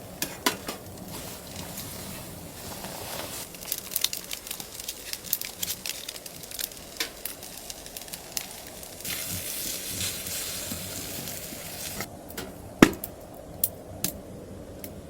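Cooking sounds: food sizzling in a pan with scattered clicks and knocks of utensils. The sizzle swells for a few seconds past the middle, and a single sharp knock comes near the end.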